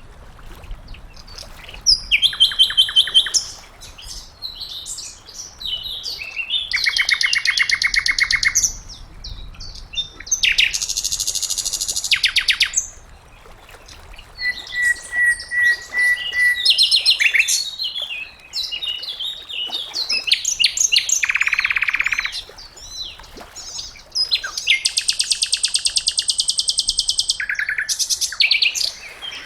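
Sikatan londo flycatcher singing: a string of fast, high, rattling trills and chattering phrases with short pauses between them, and one held whistled note about halfway through.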